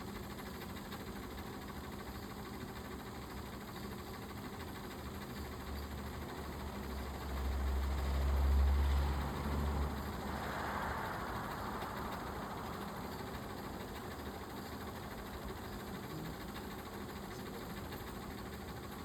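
Dirt bike engine running with a low rumble that swells about halfway through, followed by a brief hiss, then settles back to a steady low background.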